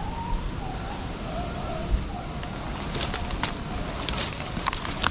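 Rabbit hounds baying faintly in the distance while running a rabbit through a cornfield, one long wavering cry, heard through steady wind noise. Rustling crackles come in about three seconds in.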